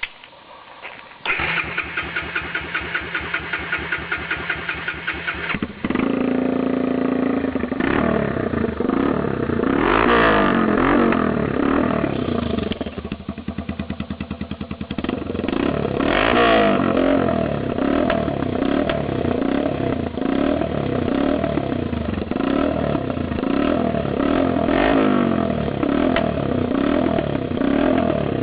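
Yamaha XT125R single-cylinder four-stroke engine running with its exhaust removed, unmuffled. It is cranked for about four seconds, catches, then runs, revved briefly twice before settling to a steady idle.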